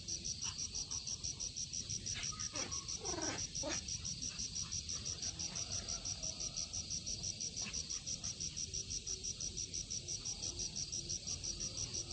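Insects chirping in a steady, high-pitched pulsing rhythm, several pulses a second, with a few short falling calls about two to four seconds in.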